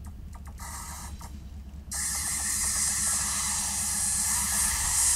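Union Pacific freight locomotives, led by a GE ES44AC-H, approaching with a low diesel rumble. About two seconds in, a loud steady hiss starts suddenly and carries on over the rumble.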